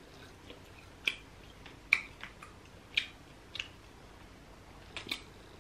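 A person chewing grilled fish, with short wet mouth smacks coming about once a second, two close together near the end.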